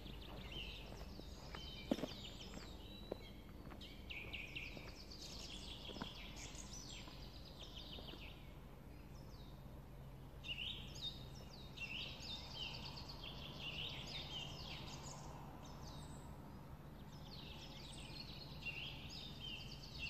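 Small songbirds chirping and singing repeatedly in short phrases, with a few footsteps on a gravel track in the first seconds.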